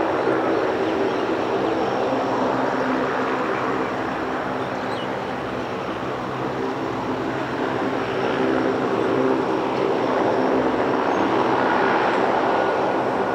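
Aircraft engines running in a continuous drone with several steady hums underneath. The sound dips a little a few seconds in, then swells again later on.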